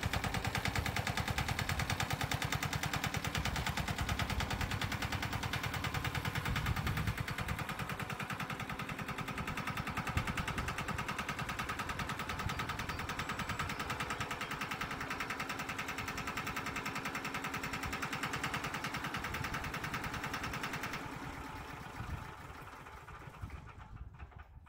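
Petter AC1Z single-cylinder diesel engine on a Gibson Model D tractor running steadily with a rapid train of firing pulses. About three seconds before the end it grows quieter and dies away.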